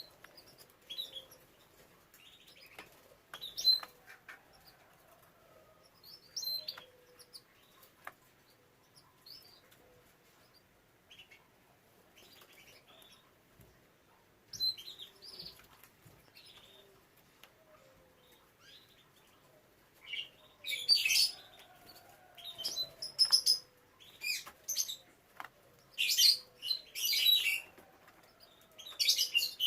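Canaries chirping: scattered short high chirps at first, growing louder and busier about two-thirds of the way through.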